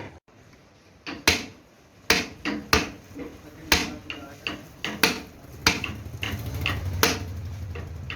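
Hammering in a workshop: about a dozen sharp, irregular strikes spaced roughly half a second to a second apart. A low hum builds up in the second half.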